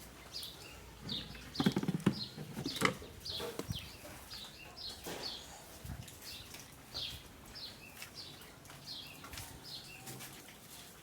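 A small bird chirping over and over with short, high, falling chirps, about one to two a second. A few sharp knocks about two to three seconds in are the loudest sounds.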